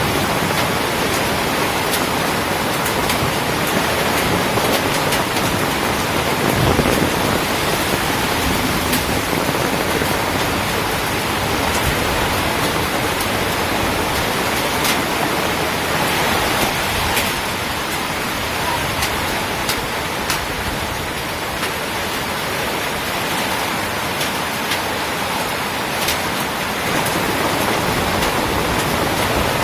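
Heavy rain pouring down steadily: a dense, even hiss with scattered sharp drip clicks.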